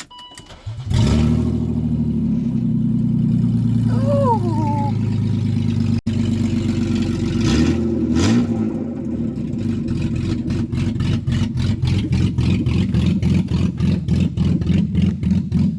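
1998 BMW 323is's 2.5-litre straight-six engine starting about a second in and then idling steadily, with a short rise in pitch near the middle.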